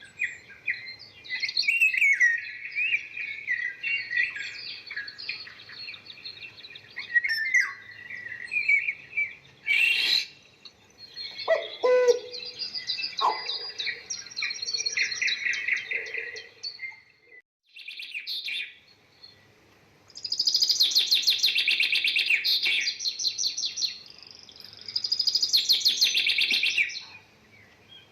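Small birds chirping and twittering busily. About two-thirds of the way in they give way to two long, loud, rapid trills.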